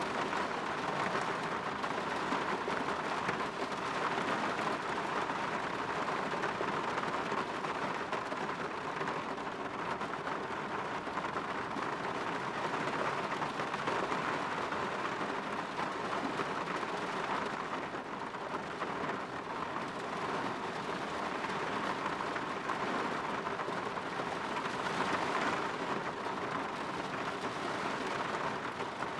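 Steady rain falling on a window and its surroundings, an even hiss that swells gently now and then.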